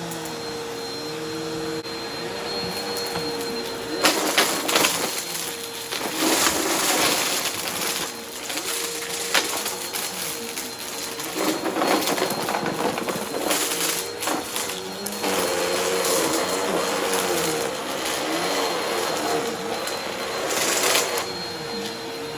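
Vacuum cleaner running steadily while it sucks up a dry, crunchy mess test from a rug. From about four seconds in there are repeated bursts of crackling and rattling, the last near the end, and the motor's pitch wavers with the load.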